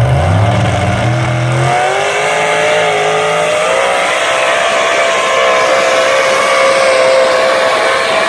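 Pulling tractor's engine revving up over about two seconds, then held at high revs at a loud, nearly steady pitch while pulling under load.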